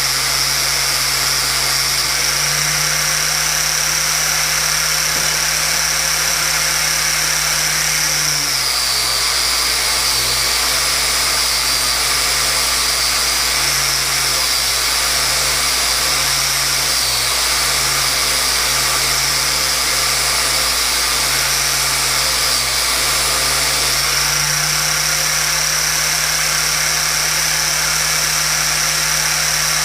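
Electric power tool motor running continuously. Its pitch drops and wavers while it is under load for about the middle half of the stretch, then returns to its free-running speed.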